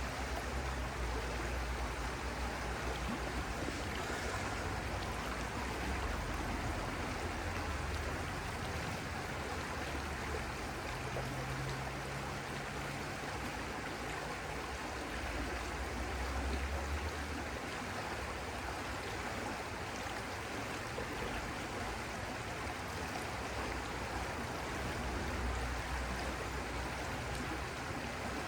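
Stream water flowing steadily, a continuous rushing with some low rumble that swells and fades.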